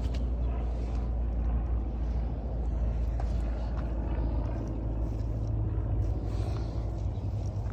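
A steady low rumble, with faint light ticks over it.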